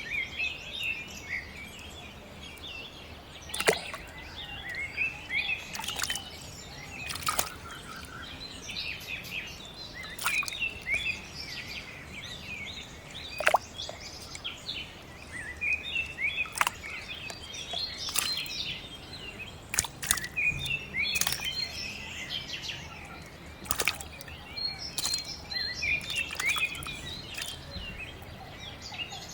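Birds chirping steadily, with sharp clicks or slaps every couple of seconds that stand out as the loudest sounds.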